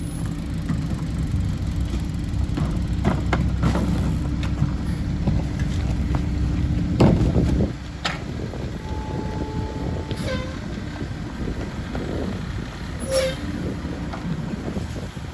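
Mack LE garbage truck's diesel engine running up under hydraulic load while the Heil rear packer compacts trash, with metal clanks and knocks from the blade and hopper. About eight seconds in, the engine drops back to idle as the cycle ends, and a few more clanks and a short squeal follow.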